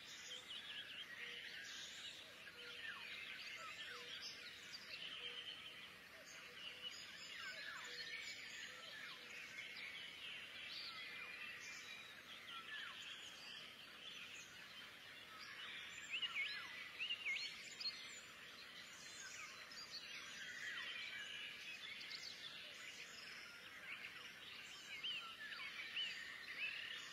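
A flock of small birds chirping in a dense, faint chorus of short, quick chirps, a little louder in spells around the middle and near the end.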